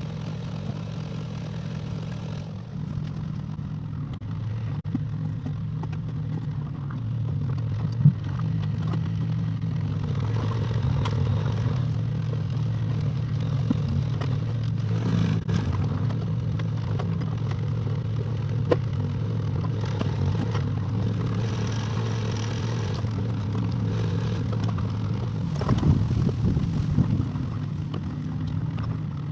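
Excavator engine running steadily, with scattered knocks and scrapes of the working machine and a louder clatter near the end.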